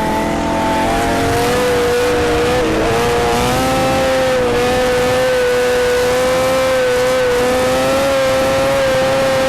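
A vehicle engine held at high, nearly steady revs. Its pitch wavers slightly, with a brief dip a little under three seconds in.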